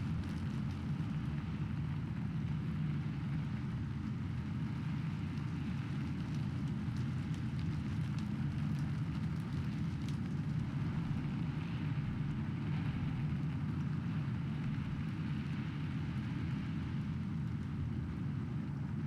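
Steady rain with a continuous low rumble underneath and faint scattered drop ticks, even in level throughout.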